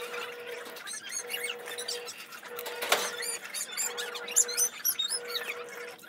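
Small birds chirping in quick series of high-pitched, falling notes, with a sharp knock about three seconds in, while water sloshes in a basin as mung beans are washed by hand.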